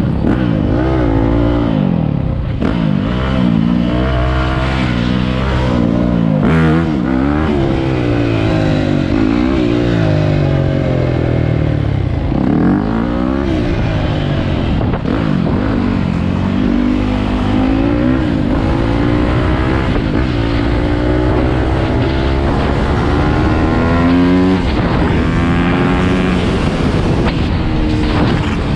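Dirt bike engines revving over and over, their pitch rising and falling every second or two, with more than one engine overlapping at times.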